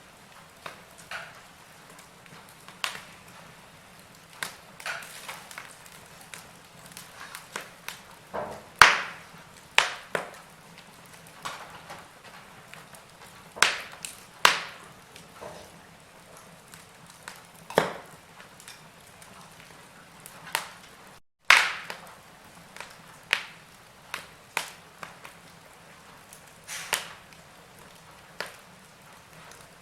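Wood fire crackling, with irregular sharp pops and snaps over a faint steady background; the sound cuts out for a moment a little past 21 seconds in.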